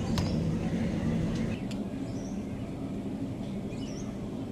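Steady low background hum with a few short bird chirps over it, and a single sharp click just after the start.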